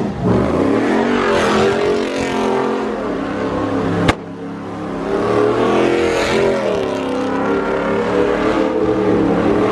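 Car engine revving hard, its pitch rising and falling repeatedly, with a single sharp bang about four seconds in.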